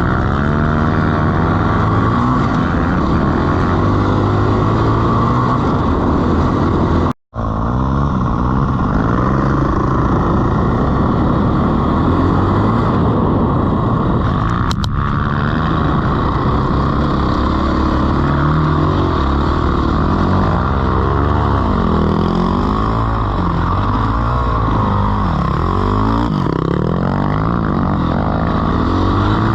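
Dirt bike engine running under load over bumpy sand, its pitch rising and falling again and again as the throttle is worked. The sound cuts out for a moment about seven seconds in.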